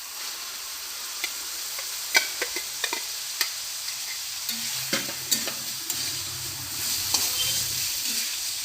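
Chicken mince and fried pointed-gourd seeds sizzling in hot oil and spice paste in a pan as they are stirred, the sizzle starting up as they go in. The stirring utensil clicks and scrapes against the pan many times.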